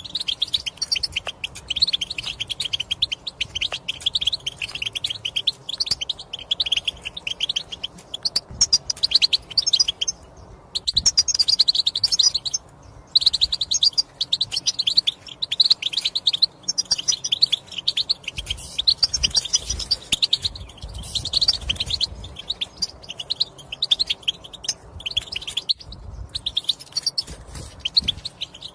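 European goldfinch twittering: a rapid, near-continuous chatter of high calls and song phrases, broken by two short pauses about ten and thirteen seconds in.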